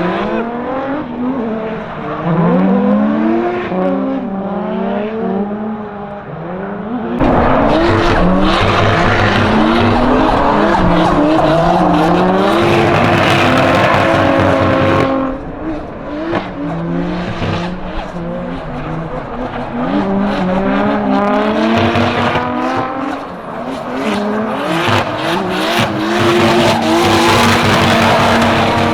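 Drift cars on track: engines revving up and down, with a long spell of loud tyre squeal and hiss from about seven to fifteen seconds in and again near the end.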